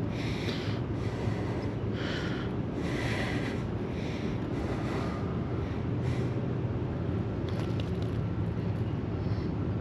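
Steady low rumble of water rushing below a dam, with several brief hissing surges over it in the first half and again near the end.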